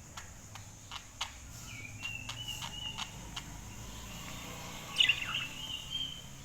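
Budgerigar chirping in short calls, with a louder call about five seconds in, among a scatter of sharp clicks in the first few seconds.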